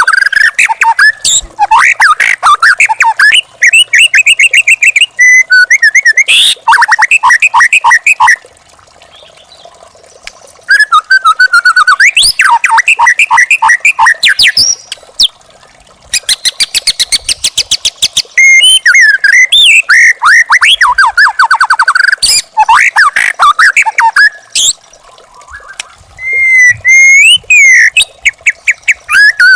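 White-rumped shama (murai batu) singing loudly in phrases of fast repeated notes, rattling trills and whistled up-and-down glides, with a few short pauses between phrases.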